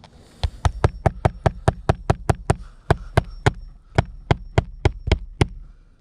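Hammer driving roofing nails into a shingle: a quick run of about twenty sharp strikes, roughly four a second, stopping near the end.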